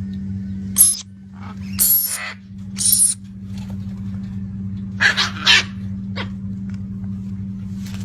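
Parrots giving harsh squawks: three in the first three seconds, a quick cluster about five seconds in and one short one after, over a steady low hum.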